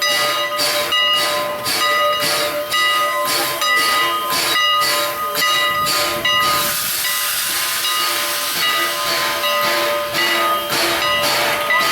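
Steam locomotive No. 89 standing and hissing, its steam coming in rhythmic pulses about two to three a second over a steady whine of several tones. About six seconds in, the pulses give way to a continuous rush of escaping steam for some four seconds, and the pulses return near the end.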